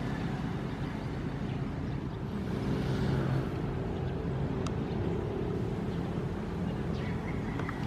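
Ocean waves washing, with one wave swelling louder about three seconds in, over a steady low hum.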